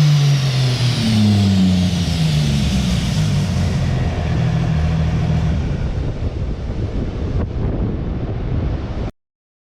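Cummins diesel drag truck engine on the dyno coming down off a pull: the engine note falls in pitch over the first two or three seconds with a high whine falling with it, then runs on steadily at lower speed. The sound cuts off abruptly near the end.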